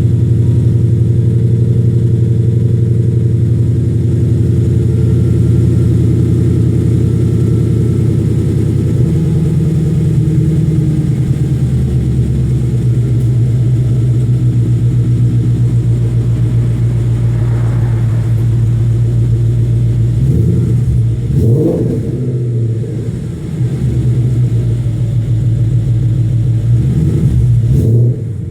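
2014 Ford Mustang GT California Special's 5.0 Coyote V8 idling steadily through Kooks 1-7/8 in. long-tube headers, a catted H-pipe and Ford Racing sport axle-back mufflers. About two-thirds of the way in, and again near the end, it is given a few light revs that rise and fall quickly.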